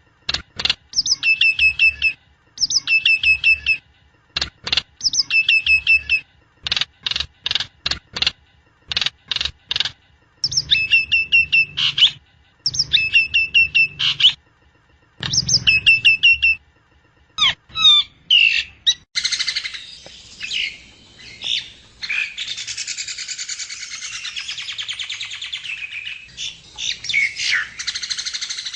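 Jalak nias songbird singing. Short, sharp whistled phrases repeat about every two seconds, broken up by quick runs of sharp notes. About two-thirds of the way through, the song turns into a dense, continuous chatter of mixed notes.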